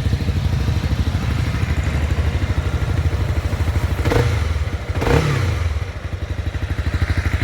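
Honda CB300R's 286cc single-cylinder liquid-cooled engine idling with an even, pulsing exhaust beat. The revs rise and fall briefly twice, about four and five seconds in, as the throttle is blipped.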